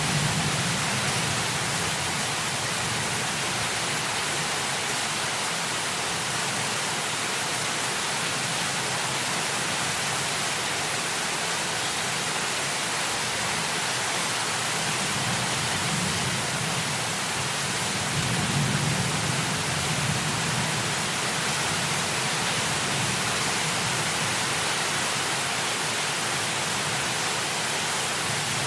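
Heavy rain as a steady, dense hiss, with low rumbles of distant thunder swelling up at the start and twice more about halfway through.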